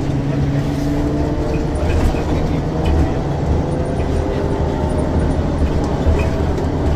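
Ikarus 435 articulated bus under way: the diesel engine runs with a steady low rumble, and a whine from the ZF gearbox slowly rises in pitch as the bus gathers speed.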